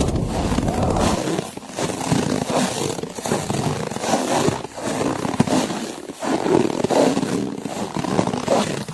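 Snow crunching under slow footsteps, a crunch about every second and a half, over blizzard wind.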